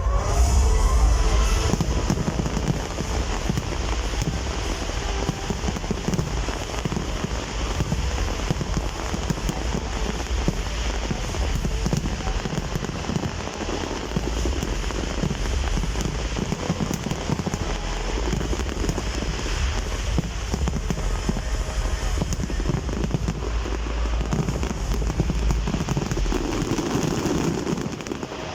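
Fireworks display in a continuous barrage, with dense crackling and deep booms overlapping without a break, easing off near the end.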